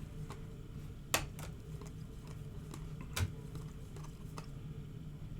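Faint, irregular clicks and taps, about seven of them spread unevenly, over a low steady hum.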